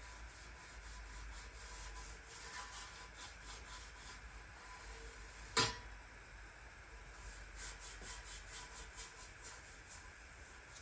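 Rhythmic hand rubbing strokes on a surface, about three a second, in two runs, with one sharp click about halfway through.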